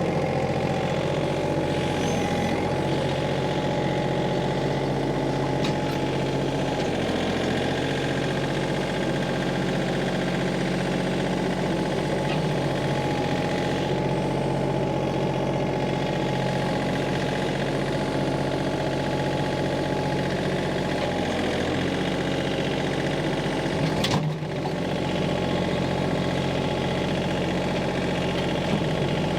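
Minneapolis Moline tractor engine running steadily at a constant speed. There is a single sharp clunk late on.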